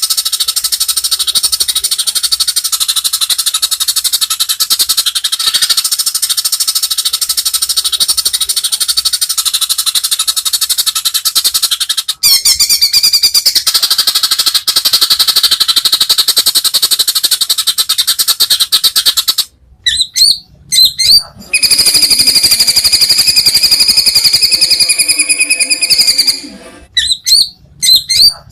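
White-rumped shama (murai batu) singing: a long, very rapid rattling trill for most of the stretch, then, after a brief break about 19 seconds in, a few short notes and a clear, steady whistle held for several seconds, ending with short notes.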